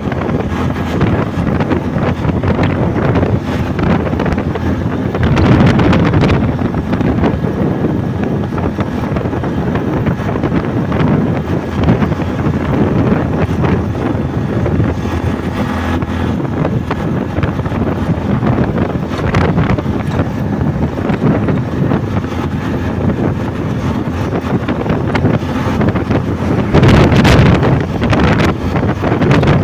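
Wind buffeting the microphone during a bike ride, over steady riding noise, with stronger gusts about five seconds in and again near the end.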